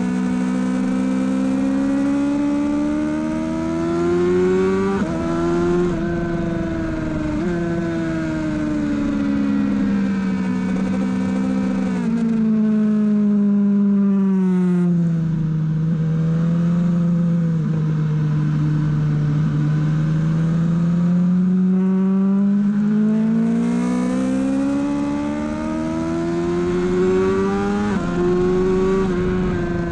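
Sport bike engine at speed on a race track, heard from on board over wind rush. Its pitch climbs with a couple of gear changes in the first few seconds, falls away under braking, holds low and steady through the middle, then climbs again as the bike accelerates, with another shift near the end.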